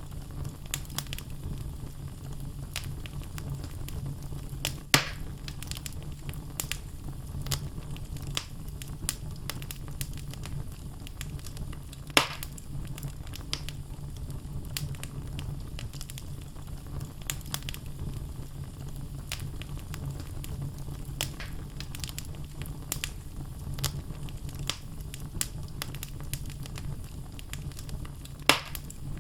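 Wood fire burning in a fireplace: a steady low rumble with frequent crackles from the burning logs, and three louder pops at about 5 seconds, 12 seconds and near the end.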